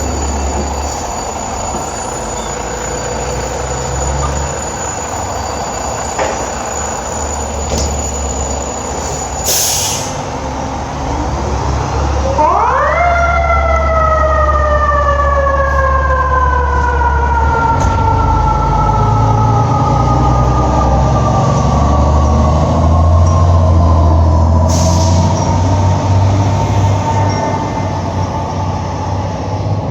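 Fire apparatus diesel engines rumbling, then a mechanical siren winding up quickly about twelve seconds in and slowly winding down in pitch from there on.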